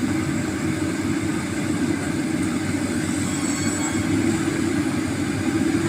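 Heavy diesel engine of earth-moving machinery running steadily with a constant hum.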